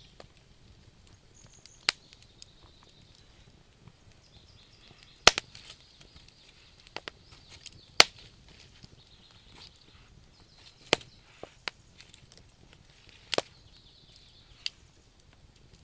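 Wood campfire crackling, with scattered small ticks and five loud, sharp pops from the burning logs, roughly every two and a half to three seconds.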